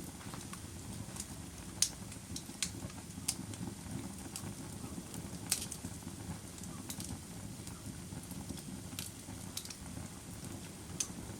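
Fire crackling: irregular sharp pops and snaps over a steady low rush of flames, with louder pops about two seconds in and again past the middle.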